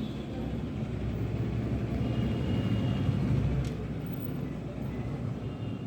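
A steady low rumble that grows a little louder in the middle, with a single short click a little after halfway.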